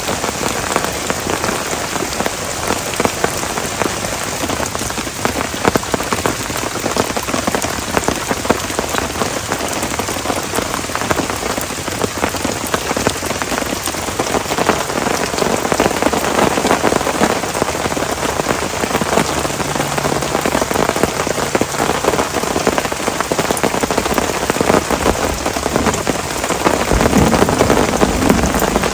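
Heavy rain pouring steadily, with a dense patter of drops hitting a surface, growing a little louder near the end.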